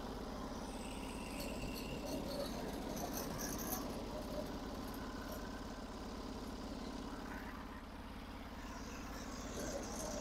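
Engine of a Norwood HD36 portable bandsaw mill running steadily.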